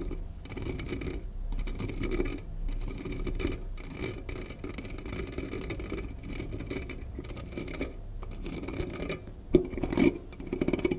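Close-miked ASMR scratching and rubbing, continuous and irregular. About nine and a half seconds in comes one sharp tap, then a run of quick taps near the end.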